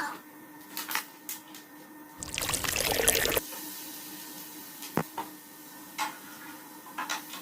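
A brief pour of liquid, about two seconds in and lasting about a second, among scattered clicks and knocks, over a faint steady hum.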